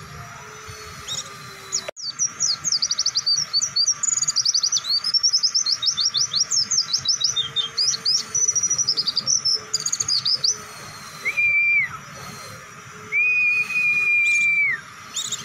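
White-eye (pleci) singing a long, fast run of high chirping notes for about eight seconds. Two held whistled notes follow near the end, each dropping off as it stops.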